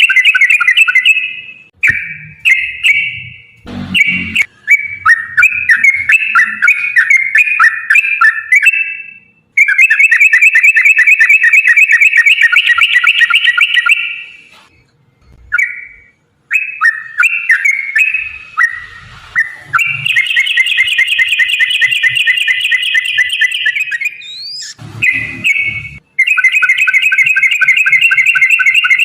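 Yellow-vented bulbuls (trucukan) singing long, rapid rolling phrases (ropel) of bright chattering notes, several seconds each, separated by brief pauses.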